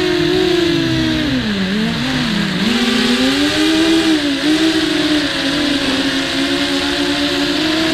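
The four small brushless motors and 5-inch props of a WarpQuad 200 racing quadcopter whine together, heard from on board the quad. The pitch drops sharply about a second and a half in as the throttle is cut back, then climbs again about three seconds in and holds with small wobbles as the motors correct.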